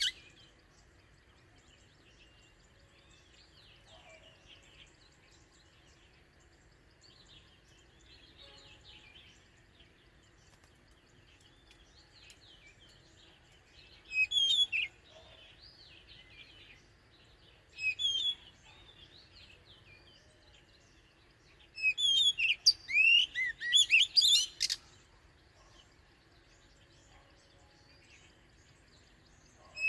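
Oriental magpie-robin singing: loud, varied whistled phrases in a short burst about halfway through, another a few seconds later, and a longer run about three-quarters of the way through. Fainter distant birdsong fills the gaps.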